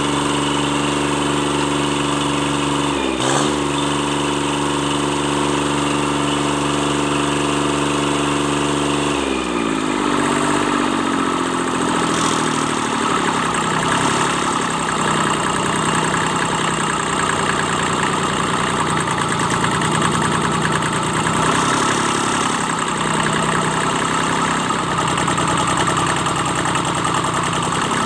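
Kubota D650 three-cylinder diesel engine running after its injection pump repair, at a steady speed at first; about a third of the way in its speed drops and it settles into a lower, less even idle.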